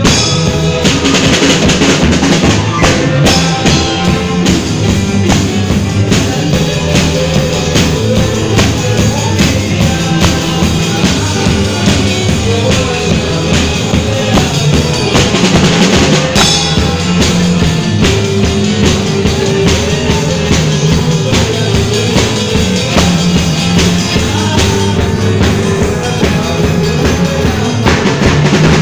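A band playing an instrumental passage at rehearsal: drum kit with bass drum and snare keeping a steady beat under bass and other instruments.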